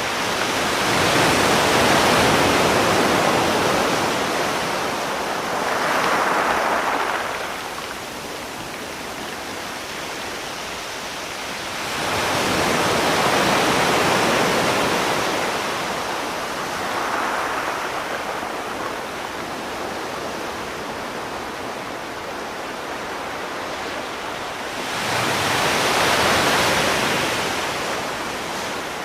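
Sea waves breaking and washing on a shore: three large surges of surf about twelve seconds apart, the first two each followed by a smaller swell, with a steady hiss of water between them.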